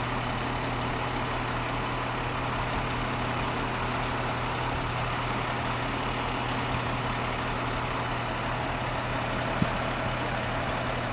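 Heavy diesel engine idling steadily with an even low hum, with one light click near the end.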